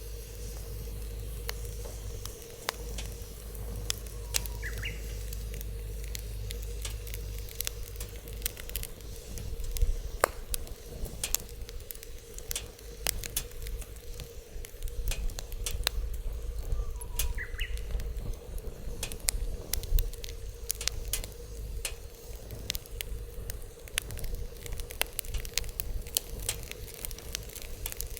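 Wood fire burning in a Snow Peak fire pit, crackling with irregular sharp pops throughout over a steady low rumble.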